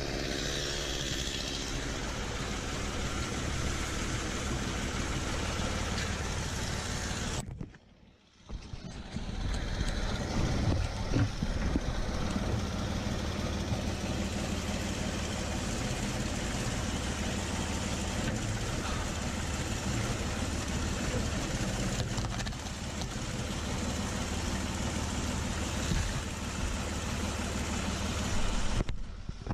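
Ford 4500 tractor-loader-backhoe engine running steadily; the sound drops out for about a second roughly eight seconds in, then carries on.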